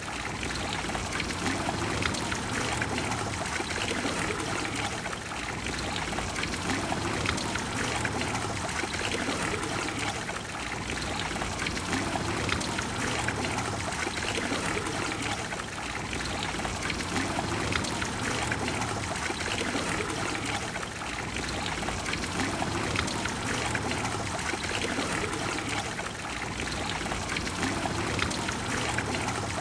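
Trevi Fountain's water cascading and splashing into its basin in a steady, continuous rush.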